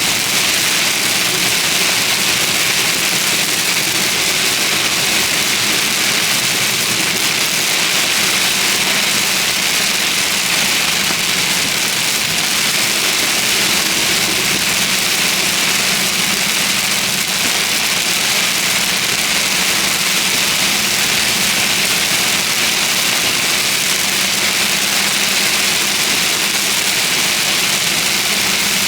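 Rain from a severe thunderstorm on a moving vehicle: a loud, steady hiss, with the vehicle's engine and road noise as a low, steady hum beneath it.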